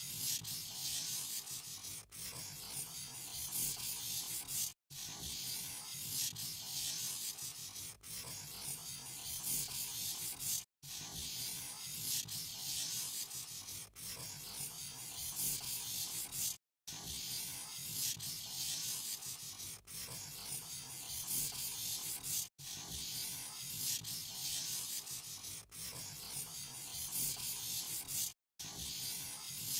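A pen or marker rubbing and scratching on paper as a picture is coloured in. It is a steady scratchy hiss, broken by brief abrupt cuts to silence about every six seconds.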